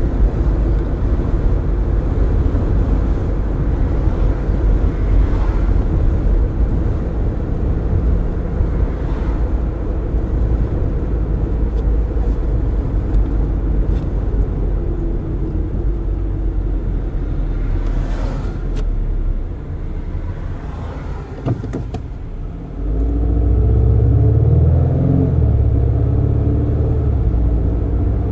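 Car driving with its windows open: steady road and wind rumble. It dips for a few seconds about two-thirds of the way through, then rises sharply and stays louder, with a shifting engine note.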